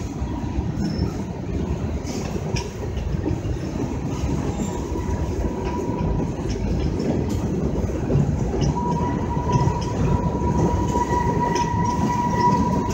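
Freight cars rolling past close by: a steady heavy rumble with scattered clicks from the wheels over the rail. A thin, steady wheel squeal runs underneath and grows louder over the last few seconds.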